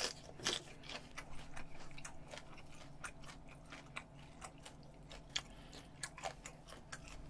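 A person biting into a green chili pepper and chewing close to the microphone: a crisp bite at the start, then irregular crunching and small wet mouth clicks.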